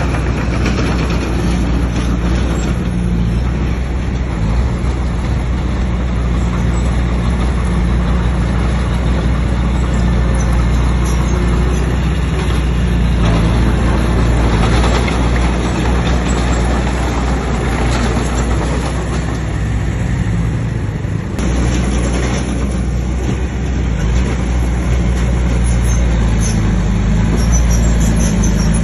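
Bulldozer's diesel engine running steadily under load, with a constant low drone and a dense rumble of noise over it.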